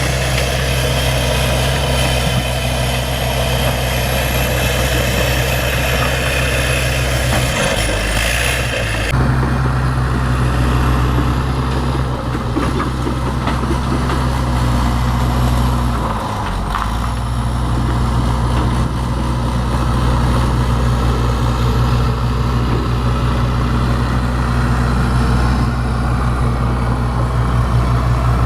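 Bulldozer's diesel engine running steadily, its pitch sagging briefly about eight seconds in and again around sixteen seconds before recovering.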